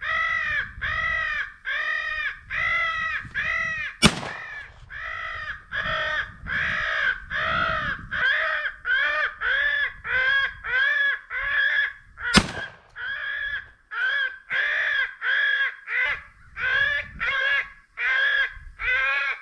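Electronic crow caller playing a continuous run of harsh crow caws, about two a second. Two sharp gunshots cut through it, one about four seconds in and one about twelve seconds in.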